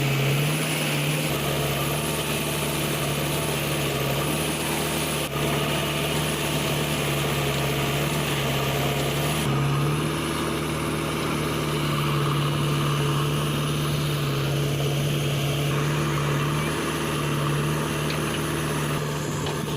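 Heavy-machinery diesel engine running steadily at a constant speed, its pitch stepping slightly about five seconds and again about nine and a half seconds in.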